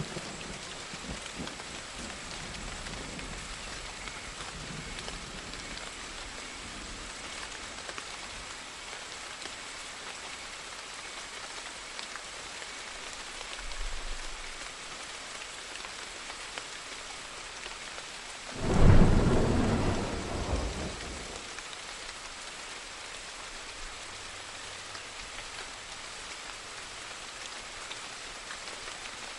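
Steady rain falling, with a soft low rumble of thunder about halfway through and then a sudden loud thunderclap about two-thirds of the way in that rolls away over a couple of seconds.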